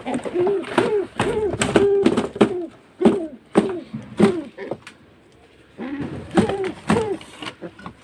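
Pigeon making rapid, short, low cooing grunts in runs, mixed with sharp clicks, with a pause about five seconds in. The keeper takes these sounds as the hen being angry with him.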